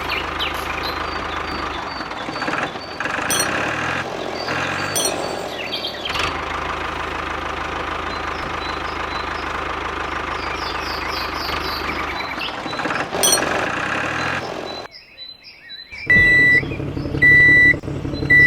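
Small engine running steadily, then cutting off about fifteen seconds in, followed by three short high beeps about a second apart, like a reversing alarm.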